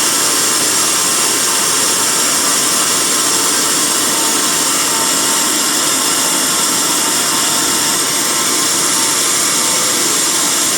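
Sawmill band saw running steadily through a teak log.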